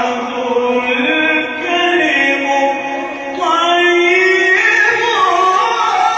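A Quran reciter's solo voice chanting in maqam Kurd, drawing out long ornamented notes in one unbroken phrase. The pitch steps up about three seconds in, and again a little later.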